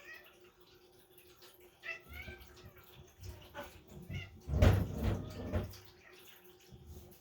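A house cat gives a few short meows. About four and a half seconds in comes a loud rustling, bumping noise lasting about a second.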